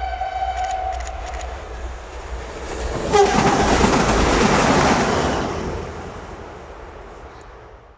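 A train sounding its horn in one held tone that stops about a second in, then passing at speed: the rush of wheels on rail swells to its loudest a few seconds in and fades as the train moves away.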